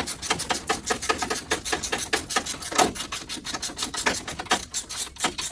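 Rapid, uneven clicking and rasping, several clicks a second, from hand tools working on the truck's bumper fasteners.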